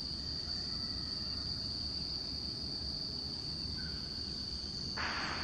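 Steady high-pitched drone of crickets over a low background rumble, with a brief rush of noise near the end.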